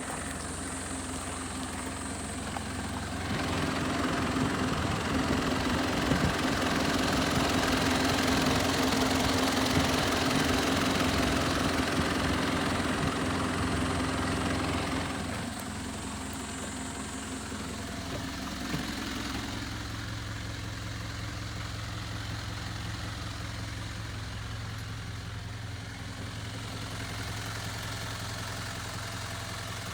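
Nissan Civilian bus engine idling, then revved up and held at higher speed for about twelve seconds before dropping back to a steady idle.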